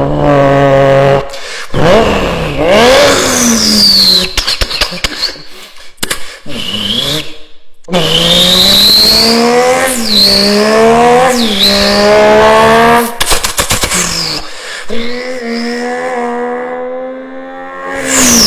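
German six-cylinder engines revving and accelerating in a string of short spliced clips: the engine note climbs, drops back at gear changes and climbs again, with abrupt cuts between clips and sharp crackling at two points.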